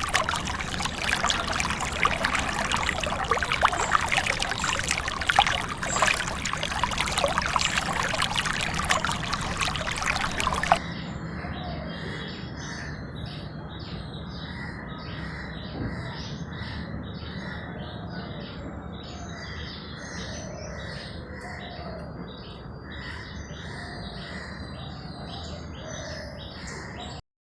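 Water splashing and pouring for about eleven seconds, then an abrupt cut to birds chirping rapidly over a gentle running-water hiss. That sound stops suddenly just before the end.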